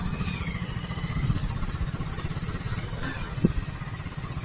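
Motorcycle engine running steadily at low speed, a low fluttering rumble, with one short knock about three and a half seconds in.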